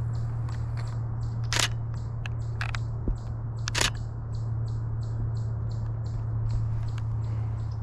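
DSLR camera shutter firing a few times, with single loud clicks and a quick double about a second apart each, over a steady low hum and faint regular ticking of about four a second.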